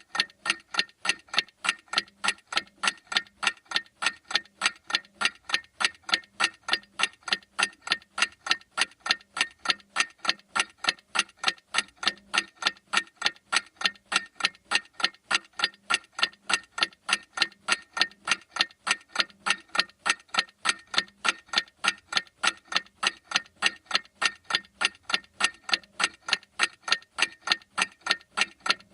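Clock ticking in a steady, even rhythm of sharp ticks, several a second.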